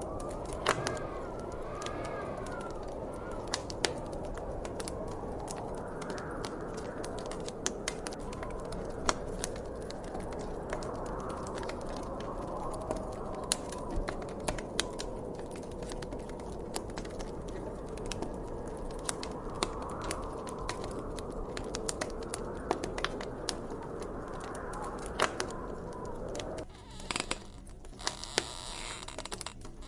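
Wood fire crackling, with many small sharp pops scattered through, over a steady low rush of wind that whistles faintly in the first few seconds. About 27 s in, the low rush drops away and a thinner, hissier layer takes its place.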